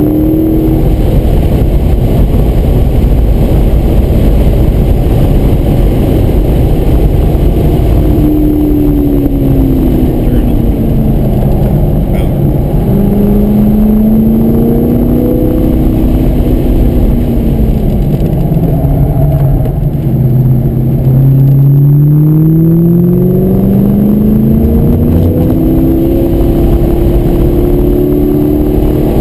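2003 Corvette Z06's LS6 V8 engine at track speed, heard from inside the cabin. Its pitch falls off through the middle as engine speed drops, lowest about twenty seconds in, then rises steadily under hard acceleration near the end.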